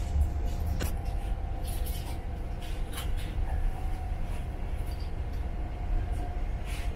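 Moving passenger train heard from inside the carriage: a steady low rumble of wheels on track with a faint steady hum above it, broken by a few short clicks.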